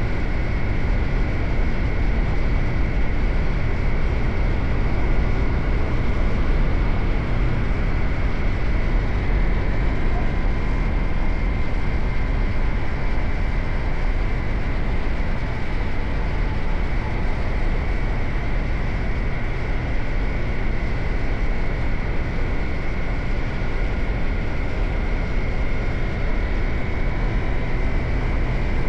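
Suzuki GSX-8R motorcycle's parallel-twin engine running at a steady speed on the move, under a heavy low rumble of riding noise; the pitch holds steady with no revs or gear changes.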